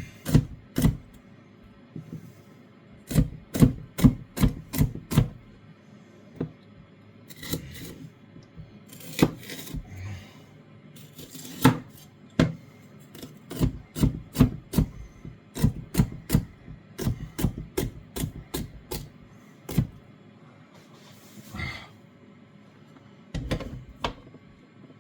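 Knife chopping vegetables on a chopping board: runs of quick knocks, several a second, in bursts with short pauses between.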